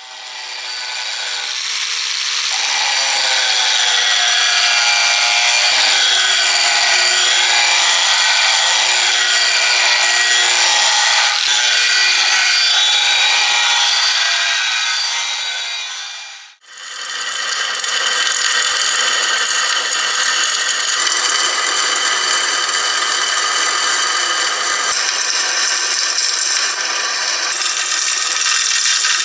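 A power tool running steadily under load, grinding or sanding, with a steady whine. It fades out about halfway through and a second stretch fades back in.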